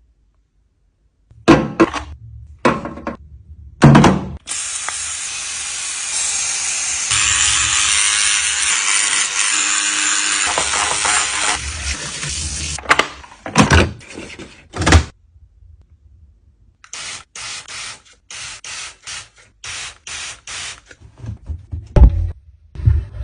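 Knocks and clatter of washing-machine parts being handled, then a steady rushing noise for about eight seconds, then a run of short strokes about two a second, and a couple of thuds near the end.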